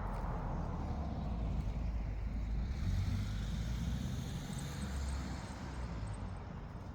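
A motor vehicle passing nearby: its engine and tyre noise rise to a peak about three seconds in, then fade away.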